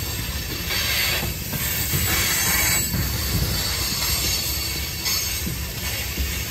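Freight train cars rolling past with a steady rumble of wheels on rail. Brief high wheel squeals come about a second in and again around two to three seconds in.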